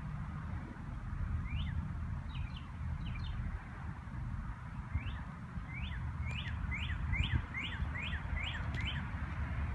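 A bird calling a series of short rising chirps, a few scattered ones and then a quicker run of about two a second from about five seconds in, over a steady low rumble.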